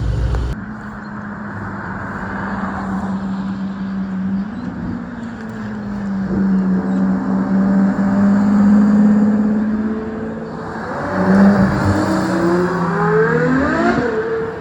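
Car engine running steadily, then revving, its pitch climbing over the last few seconds before dropping back.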